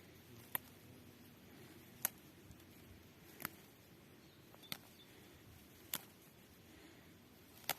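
Wood fire in a fireplace crackling, with a sharp pop every second or so over a faint steady hiss of the flames.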